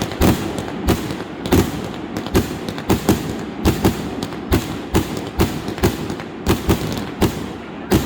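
Fireworks going off in rapid succession: sharp bangs about three a second over a continuous crackle.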